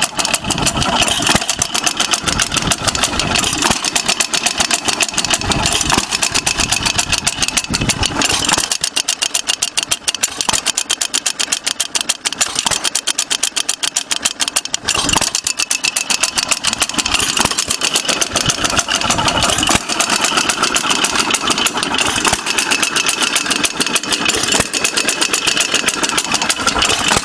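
Antique Ideal hit-and-miss engine running, with a steady rapid ticking and clanking from its works and heavier firing stretches between lighter coasting spells. It has a clanking that the owner can't place and suspects may be the governor weight.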